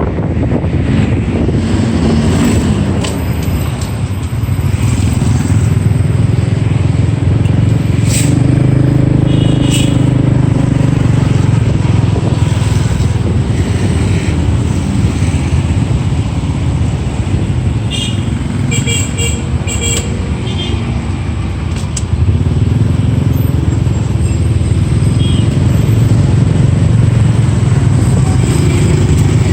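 Riding on a small motorcycle in city traffic: its engine runs steadily under wind and road noise, rising and easing as the bike speeds up and slows. A few short high beeps come about ten seconds in and again around twenty seconds.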